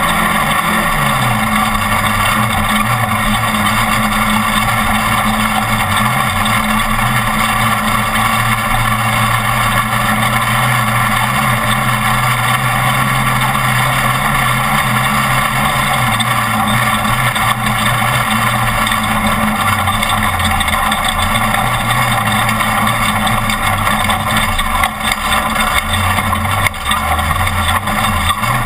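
Off-road race truck's engine running hard at racing speed, its revs rising and falling as it drives, with a couple of brief dips in level near the end.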